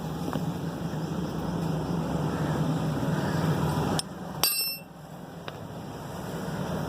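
A metal object strikes once with a sharp clink and a brief ring, over a steady low rumble that drops away just before it. A small click follows about a second later.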